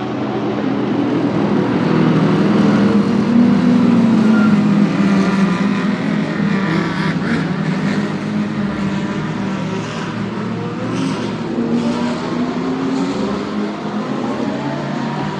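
Several GT3 race car engines running together as the cars drive out of the pit lane, loudest a few seconds in. Near the end one engine's pitch climbs as it accelerates.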